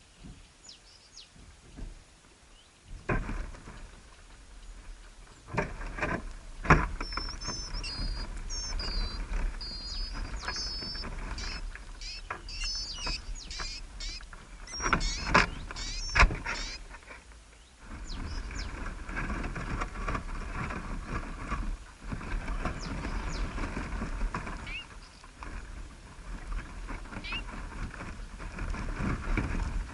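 A small bird chirping, with quick high, gliding notes for several seconds in the middle, over a rumbling noise that comes and goes in long stretches. Several sharp knocks stand out, the loudest about a third of the way in and again around the middle.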